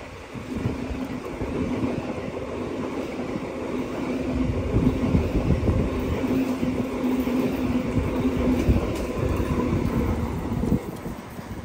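New Intercity Fleet double-deck cars, towed unpowered behind a locomotive, rolling steadily past with a low rumble, a steady hum and short wheel clicks over the rail joints; the sound drops off about 11 seconds in as the last car clears.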